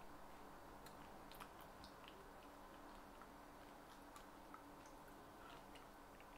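Faint chewing of a mouthful of red-fleshed dragon fruit (pitaya): a few scattered soft mouth clicks over near silence.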